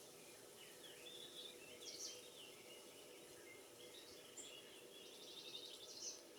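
Faint songbirds singing: a run of short chirps, twitters and trills, one phrase after another, over a steady low background hum.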